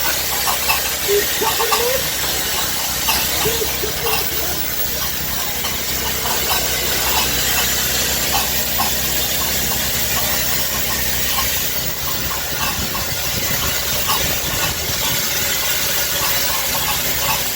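Steam locomotive standing with steam hissing steadily, over a low steady hum.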